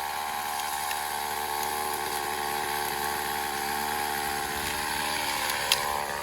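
A small engine running steadily at an even pitch, with one sharp click near the end.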